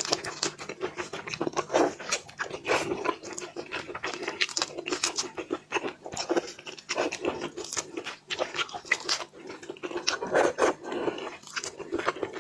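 A person eating boiled seafood close to the microphone: irregular wet chewing and biting with many short clicks and crackles, several a second.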